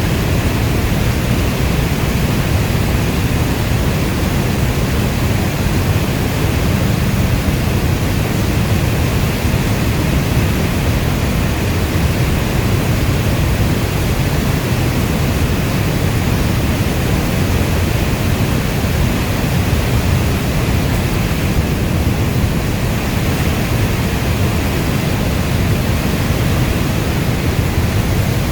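Steady rainfall: an even, unchanging hiss with a strong low rumble underneath, no separate drops or thunder standing out.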